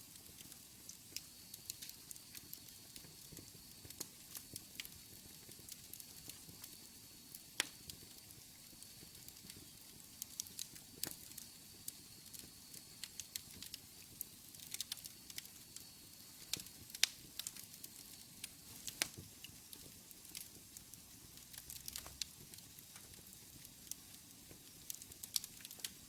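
Fireplace fire crackling: irregular sharp pops and snaps over a soft steady hiss, with a few louder pops standing out.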